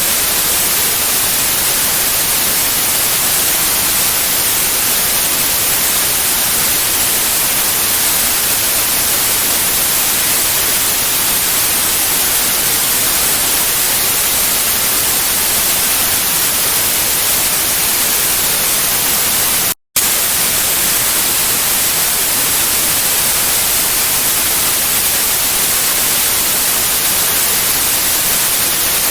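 Steady white noise: an even, loud hiss spread across all pitches, brightest in the treble. It cuts out to silence for a split second about 20 seconds in, then resumes unchanged.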